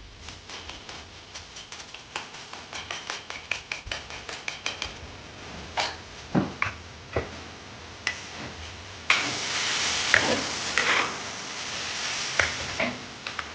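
Rapid chopping strokes of a knife on a cutting board, then a few separate knocks. About nine seconds in, a steady sizzle starts suddenly as food goes into hot oil, with a few knocks of utensils over it.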